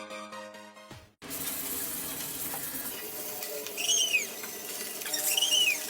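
Background music cuts off about a second in. It gives way to a steady hiss like running water, with two short squeaks that rise and fall in pitch, the second louder, near the end.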